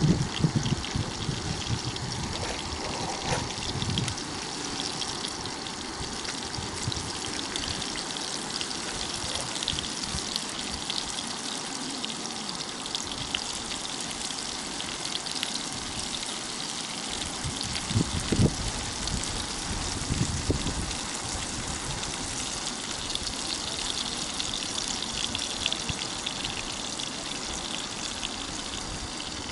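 Flour-coated rotan (Amur sleeper) fish frying in oil in a pan: a steady sizzle with fine crackling. Two brief low thumps a little past the middle.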